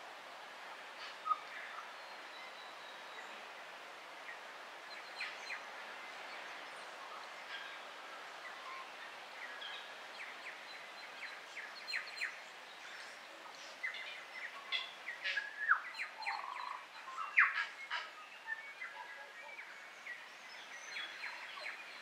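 Wild birds calling and singing, with many short chirps and calls that are busiest in the second half, over a steady background hiss.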